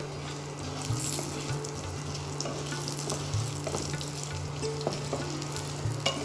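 Potato chunks frying in mustard oil in a non-stick frying pan, a steady sizzle with a wooden spatula stirring and clicking against the pan now and then. A steady low hum runs underneath.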